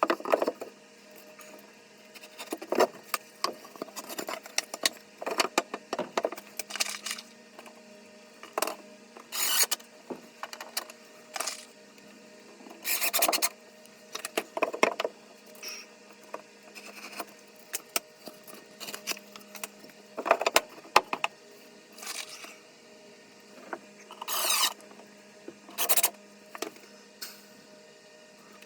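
Irregular scrapes, clinks and rubbing noises of objects being handled and moved, some short and some lasting about half a second, over a faint steady hum.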